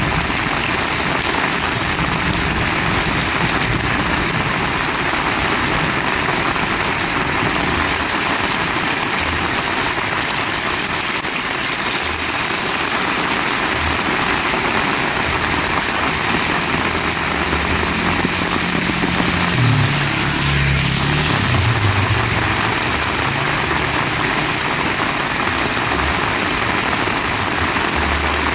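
Heavy rain falling steadily, a dense even hiss. A low rumble builds under it and swells for several seconds partway through.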